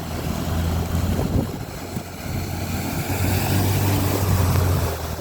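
Car engine running steadily at low revs, its hum growing a little louder in the second half, with a rushing noise over it.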